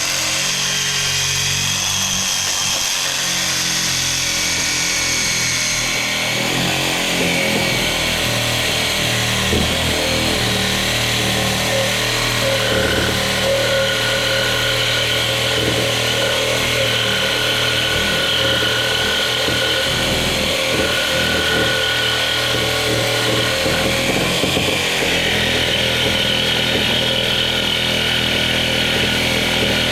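Reciprocating saw with a Diablo carbide blade for thick metal, running steadily as it cuts through metal.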